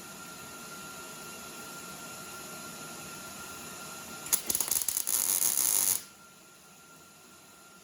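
MIG welder laying a short tack weld on a steel quarter-panel patch: a loud, crackling sizzle lasting under two seconds, starting about four seconds in and cutting off sharply. Before it there is only a steady hiss with a faint steady tone.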